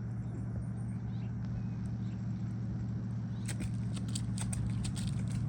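A steady low mechanical hum. From about three and a half seconds in, a quick run of light scrapes and taps, typical of shingles being handled and marked.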